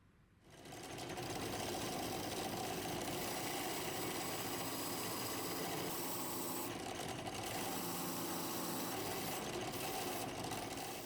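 A small electric power tool motor running steadily. It comes up to speed about half a second in and stops abruptly near the end.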